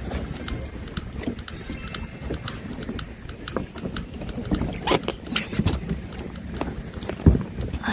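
Wind rumbling on the microphone, with scattered light clicks and a few sharp knocks and thumps from a small rowboat and its gear being handled, loudest in the second half.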